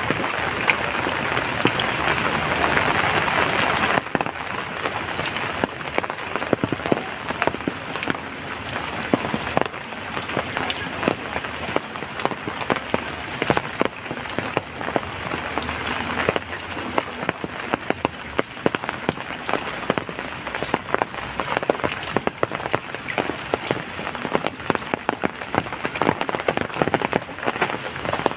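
Steady rainfall, with many individual drops landing close by as sharp ticks over a continuous hiss. The hiss is fuller for the first few seconds and eases slightly about four seconds in.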